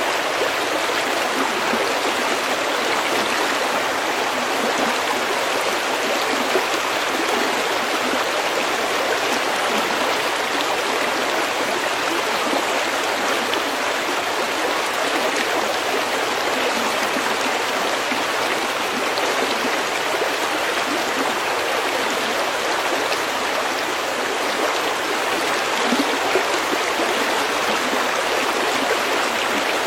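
Steady babbling of a shallow stream running over pebbles, an even rushing with small gurgles and splashes.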